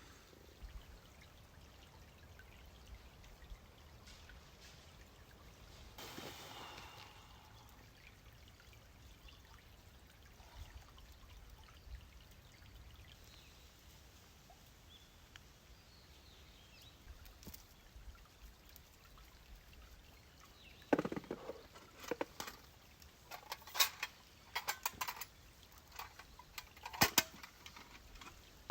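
Quiet outdoor background, with a short pour of liquid about six seconds in, then a run of sharp knocks and clatter over the last eight seconds.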